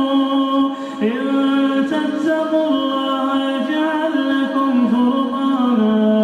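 A male reciter chanting Quranic recitation (tajweed) in a drawn-out melodic style: long held notes that bend slowly up and down, with a short breath break about a second in.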